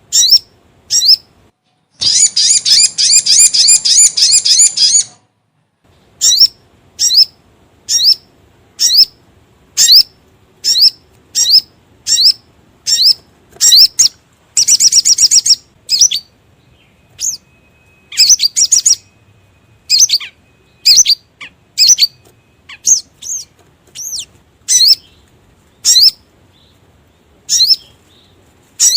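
Lure-call recording of the sogon (sogok ontong) bird: sharp, high chirps about once a second, broken by a long rapid trill about two seconds in and a shorter trill near the middle.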